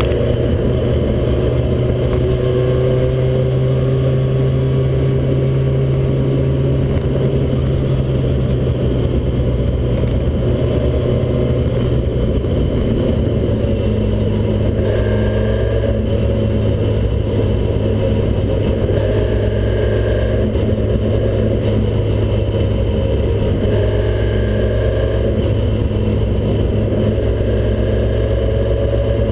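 Ford Cortina Mk1 engine and road noise heard from inside the cabin at steady cruising speed on the motorway, a steady drone whose pitch drops slightly about twelve seconds in.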